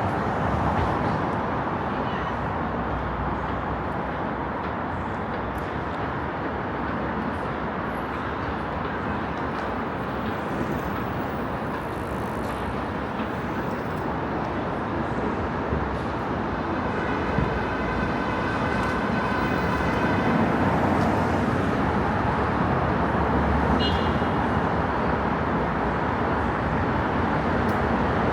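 Steady city road traffic noise, with a vehicle's whine rising out of it for a few seconds past the middle.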